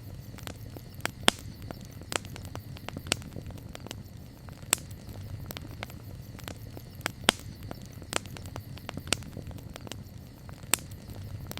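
Campfire crackling: a steady low rumble of burning wood with constant small ticks and a sharp snap or pop about once a second.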